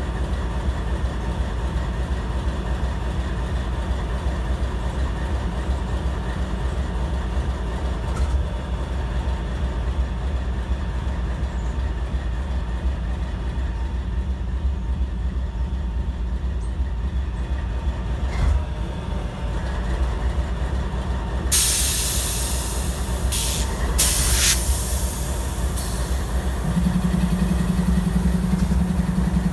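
Freight train moving in a rail yard: the steady low rumble of the diesel locomotive and rolling freight cars. About three-quarters of the way in come several bursts of loud hissing, and near the end a steady low drone joins in.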